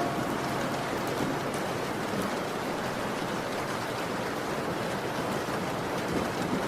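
Steady rain falling, an even patter with no music over it.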